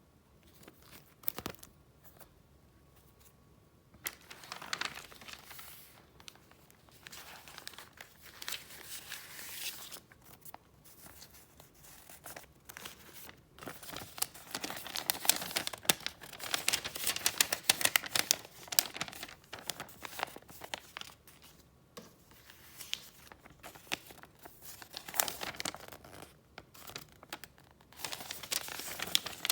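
Gift wrapping being handled and opened by hand, crinkling with bouts of tearing. It starts about four seconds in after a quiet moment with a couple of light clicks, and is busiest in the middle.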